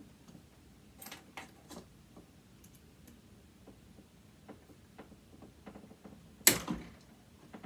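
Small metallic clicks and clinks of tools and parts during hand disassembly of a sewing machine motor, with one much louder knock about six and a half seconds in.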